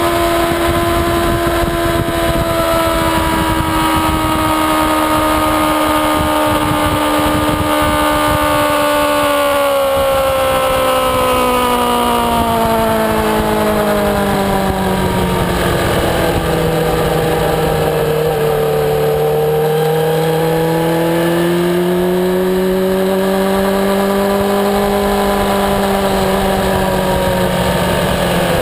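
Racing motorcycle's engine at speed, heard from the bike itself with wind buffeting the microphone. The engine note holds steady, falls gradually over several seconds as the bike slows through a corner, then climbs again past the middle and levels off.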